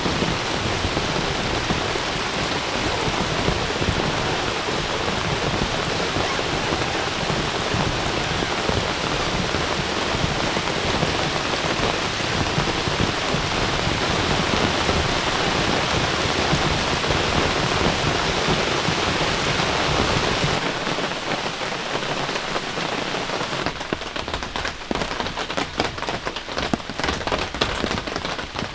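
Heavy rain falling in a steady downpour. About twenty seconds in, the sound changes and thins out, and near the end it is mostly separate drops hitting a surface.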